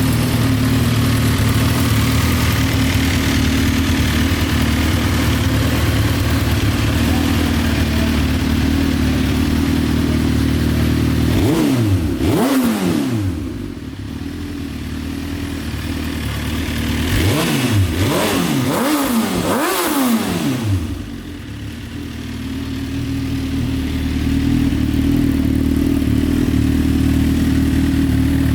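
Suzuki GSX-R1000 K7's inline-four engine idling steadily. It is blipped once partway through, then revved three times in quick succession a few seconds later, settling back to idle after each.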